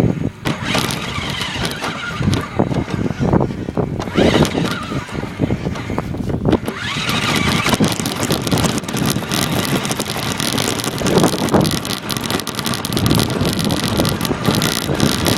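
Radio-controlled car driving, heard from a recorder taped onto the car: constant rattling and wheel noise with the motor's whine rising a couple of times as it speeds up.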